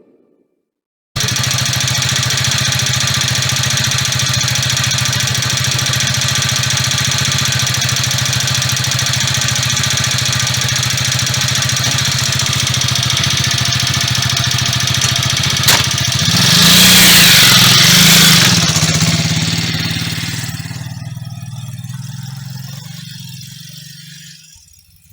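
Motoland Forester KT200B motorcycle's single-cylinder four-stroke engine running steadily. It is briefly revved twice, a little louder, then fades away as the bike moves off.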